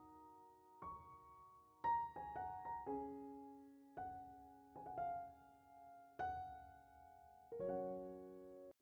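Soft background piano music: slow, sustained chords and single notes that ring and fade, which cuts off abruptly just before the end.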